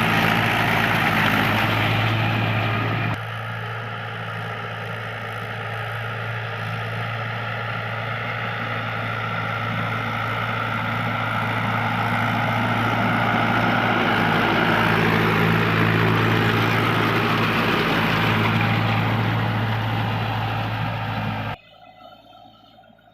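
Mahindra 575 DI tractor's diesel engine running steadily. Its level drops suddenly about three seconds in, then slowly grows louder, and the sound cuts off abruptly near the end.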